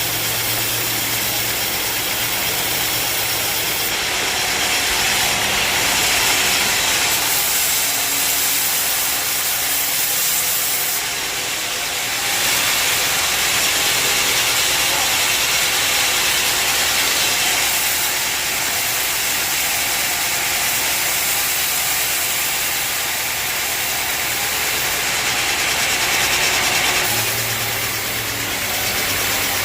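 Band sawmill running, its blade cutting through a log with a dense, steady hiss that swells and eases several times. A low machine hum shows through near the start and again near the end.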